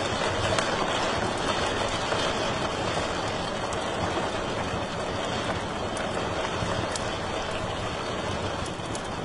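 Wood fire burning in a fireplace: a steady rushing hiss with a scattering of sharp crackles and pops.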